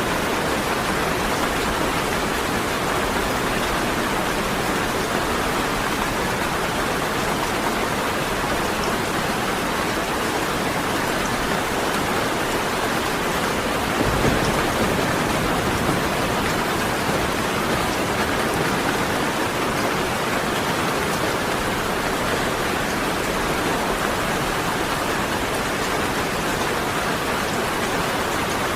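Steady rain falling, an even dense hiss of drops, with a brief louder low swell about halfway through.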